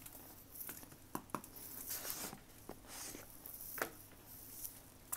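Chewing frozen cornstarch chunks: irregular soft crunches and crackles, with a few sharp clicks.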